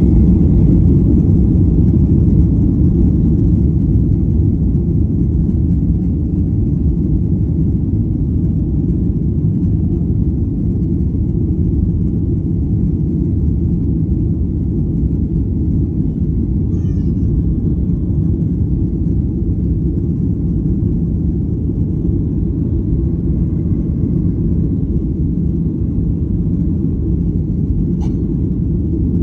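Airliner cabin noise during takeoff: a steady low rumble of the jet engines and airflow heard from inside the cabin, a little louder for the first couple of seconds.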